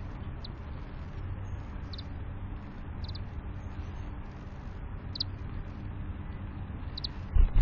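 Short high chirps from birds at a window feeder, one every second or two, over a steady low rumble. A loud knock comes near the end.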